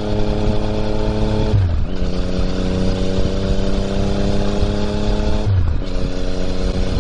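Yamaha MT-09's three-cylinder engine through an Akrapovič exhaust, ridden under acceleration. The engine note climbs gradually and drops sharply at two upshifts, about one and a half seconds in and again near the end, over steady wind rush.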